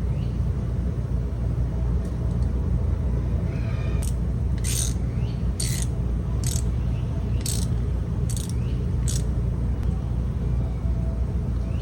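Hand thread tap being worked to chase and clean threads: about seven short rasping metal strokes, evenly spaced under a second apart, from about four seconds in. A steady low rumble runs underneath throughout.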